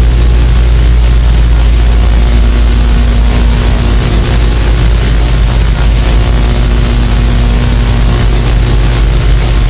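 Loud, steady low drone: a deep rumble with a constant hum and an even hiss over it, dipping slightly after about four seconds.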